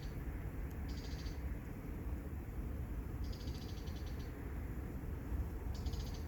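Three short, high-pitched pulsed trills from a small animal: a brief one about a second in, a longer one of about a second past the middle, and a brief one near the end, over a steady low rumble.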